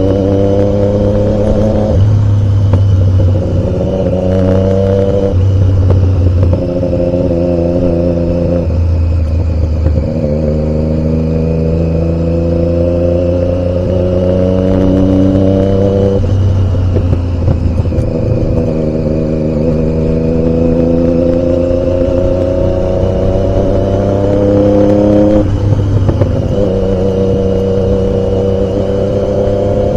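Triumph Daytona 675's three-cylinder engine being ridden, its pitch climbing steadily and then dropping sharply several times as it goes through the gears.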